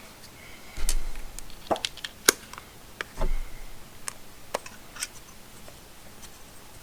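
Scattered sharp clicks and taps of handling a small screwdriver tool and a plastic handheld thermometer, with two dull bumps about a second in and about three seconds in.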